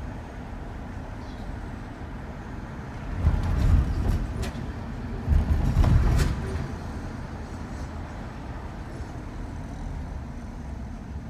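Shuttle van driving, with a steady low road rumble. Two louder surges of noise come about three and five seconds in, with a few sharp clicks or rattles among them.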